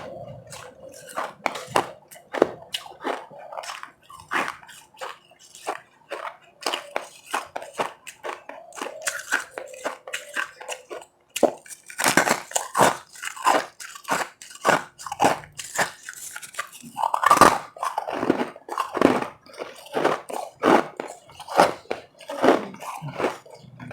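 Powdery ice being bitten and chewed close to the microphone: a quick run of crisp crunches, sparser and softer at first, then denser and louder from about halfway.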